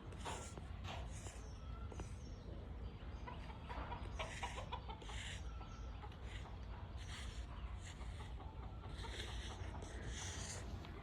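Birds calling over and over, short high calls coming every half second to a second, over a steady low rumble.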